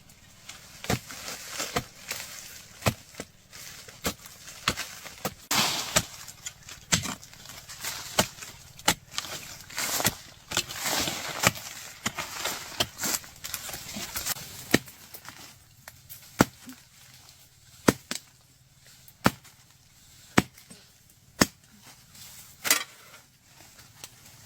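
A hand digging tool chopping into earth, about one sharp strike a second, with loose soil scraping and crumbling between some of the strikes.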